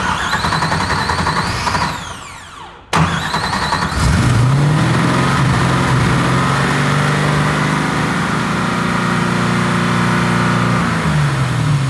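LS-based V8 swapped into a BMW E36 M3, first start: it cranks for almost three seconds and winds down with a falling whine, then catches about three seconds in and runs at a steady idle. Near the end its pitch drops as it is shut off.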